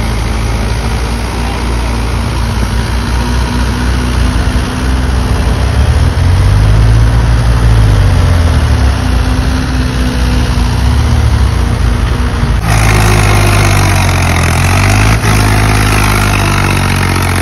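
Tractor diesel engine running hard under a heavy load of about 70–80 quintals, its pitch rising and falling as the revs change. About two-thirds of the way through, a loud hiss suddenly joins it and stays to the end.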